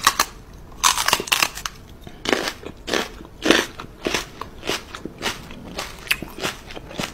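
Crunching chewing noises, like someone biting into crisp food, repeated about once every half second to second.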